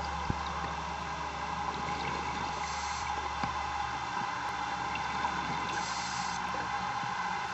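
Steady underwater noise with a low hum that drops away about four seconds in, and a brief hiss twice.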